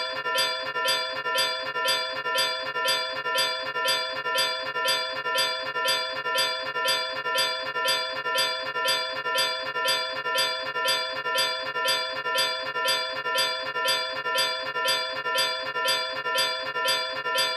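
A bell struck over and over at an even pace, about two strikes a second, each ring carrying over into the next.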